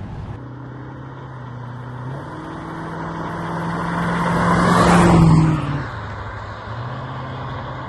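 1985 Aston Martin V8's 5.3-litre V8 engine as the car drives past. The engine note steps up about two seconds in and grows louder as the car approaches, is loudest as it passes about five seconds in, then fades as it drives away.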